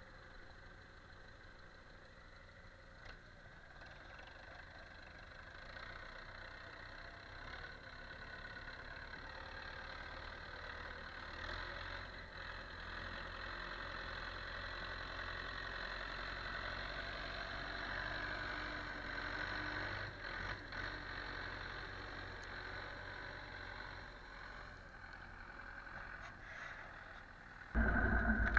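An engine running steadily at a distance, slowly growing louder, then a much louder engine sound cutting in suddenly near the end.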